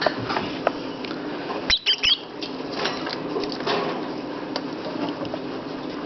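A lovebird gives two or three short, high, squeaky chirps about two seconds in, among light scratching and pattering from the birds moving about, over a low steady hum.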